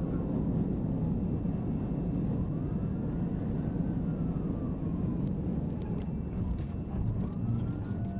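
Police siren in a slow wail, rising and falling through about two cycles, heard faintly over the heavy, steady rumble of engine and road noise from a vehicle at speed.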